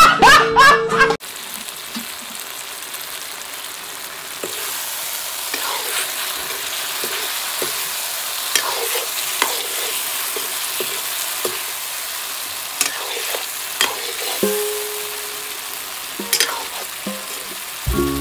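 Chicken curry sizzling and frying in a kadai while a metal ladle stirs it, knocking and scraping against the pan now and then. The sizzle grows louder about four seconds in. A loud burst of music cuts off abruptly about a second in.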